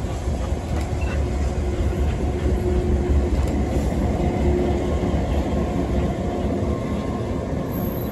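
Steam-hauled passenger train running along the track: a steady low rumble of wheels on rail, with a few light clicks in the first second.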